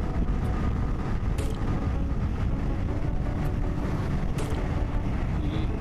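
Riding motorcycle: steady wind rush on the microphone over engine and road noise, with a few short ticks.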